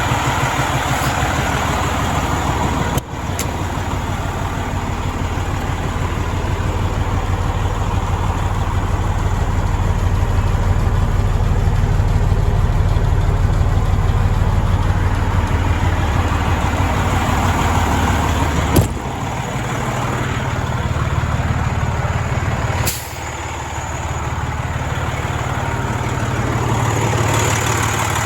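Diesel engine of a 2007 Freightliner Columbia 120 semi truck running steadily, with abrupt breaks in the sound three times.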